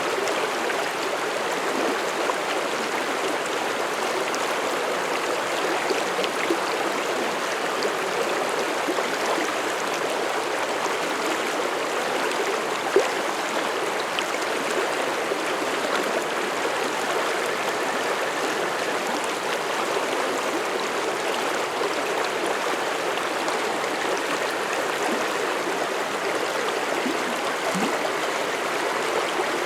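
Mountain stream flowing over rocks: a steady, full rush and babble of water, with a small splash standing out about halfway through.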